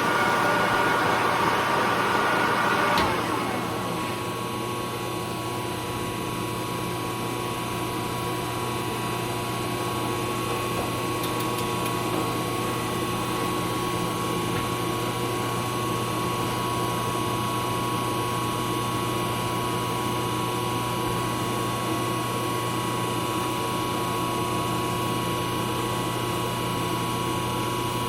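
Lathe running with a steady motor hum and whine. For about the first three seconds it is louder, with extra higher tones, then drops to an even, quieter running hum.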